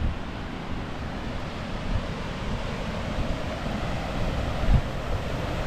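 Steady rush of the Blacksmith Fork River and its waterfall, with wind buffeting the microphone and one brief bump near the end.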